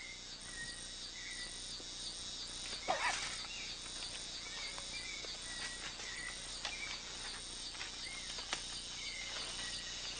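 Amazon rainforest ambience: high-pitched insects pulsing steadily, scattered short bird chirps, and a few sharp snaps, the loudest about three seconds in.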